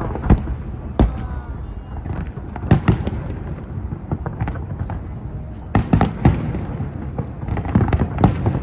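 Aerial fireworks shells bursting in a series of sharp bangs, several coming in quick succession, over a continuous background of crowd noise.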